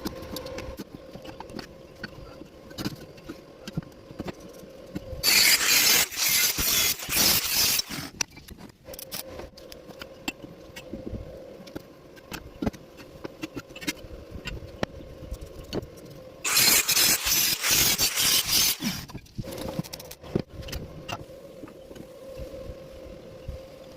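Electric arc welding on mild steel: two bursts of loud, dense arc crackle, each about three seconds long, the first about five seconds in and the second about sixteen seconds in. Between the welds a steady hum and scattered clicks and taps.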